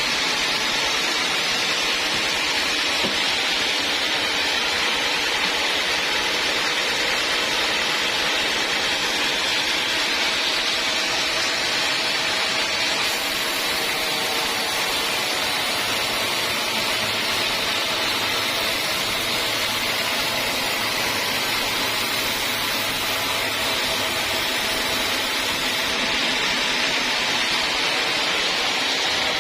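Sawmill machinery running steadily: an unbroken hiss with a faint low hum underneath, neither rising nor falling.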